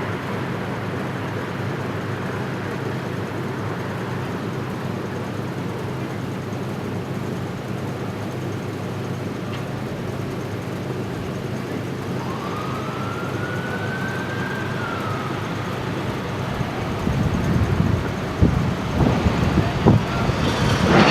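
A siren wails once, rising and then falling over about three seconds, over a steady hum of city traffic. Near the end, loud irregular low rumbling comes in.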